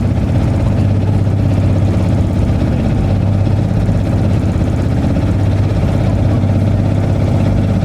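Longtail boat engine running steadily, a loud, even low drone.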